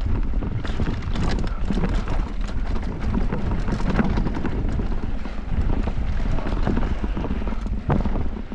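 Mountain bike running down a rough dirt trail: a steady low rumble with a rapid, irregular patter of clicks and rattles as the bike goes over the bumps.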